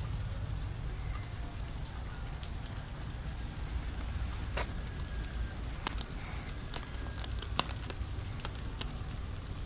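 Light rain falling, with scattered sharp ticks of single drops striking close by, over a steady low rumble.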